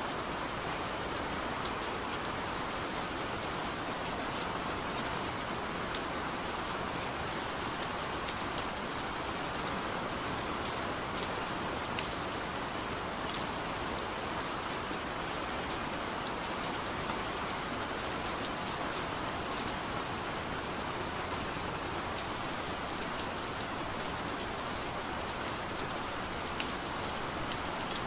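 Steady rain falling, an even hiss dotted with scattered sharp ticks of individual drops.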